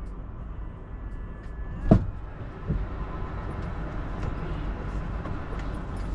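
Steady low vehicle rumble, with one sharp knock about two seconds in and a smaller one shortly after.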